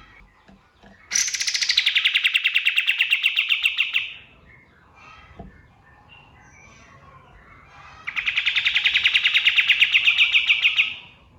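Kapas tembak singing two long, rapid trills of about three seconds each, one about a second in and one in the second half. The first slides down at its start, then both hold a steady high pitch.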